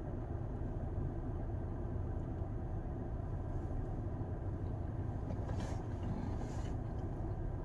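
Steady low rumble of a running vehicle, with two brief soft rustles about five and a half and six and a half seconds in.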